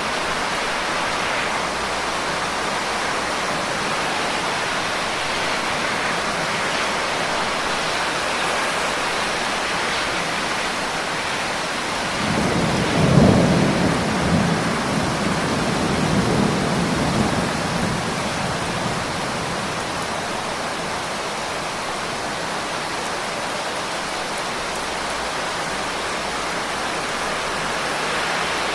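Steady rain falling, with a roll of thunder that starts about twelve seconds in, peaks at once and rumbles away over several seconds.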